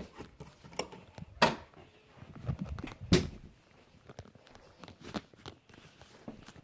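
Footsteps and handling knocks of someone walking with the recording device: irregular soft thuds, the two loudest about a second and a half and three seconds in.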